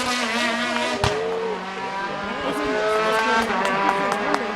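Rally car engine accelerating hard along a special stage, its pitch climbing through the revs, with a sharp crack about a second in and a few short cracks near the end.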